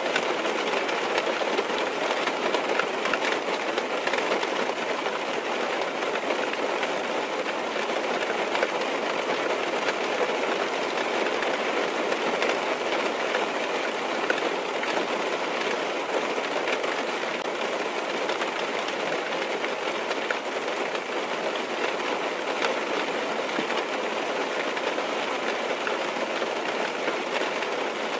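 Steady rain falling on a car's roof and windows, heard from inside the car: an even hiss scattered with fine drop ticks.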